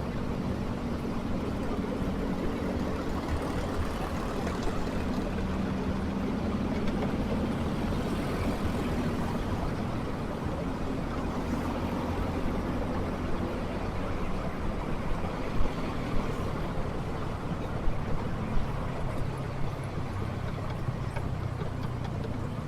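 Motorcycle engine running at a steady low speed in city traffic, with road and wind noise, and a few short knocks about two-thirds of the way through.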